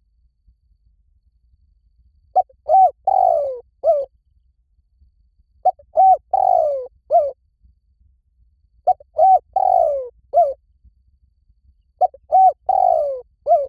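Spotted dove cooing, close and loud: four repeated call phrases about three seconds apart. Each phrase is two short coos, a longer falling coo and a short closing coo.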